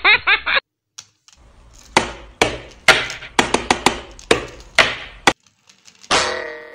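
Hard plastic toy trains clicking and knocking against each other and the surface as they are lifted from the box and set down, a run of about ten sharp, irregular taps. A short ringing tone fades out near the end.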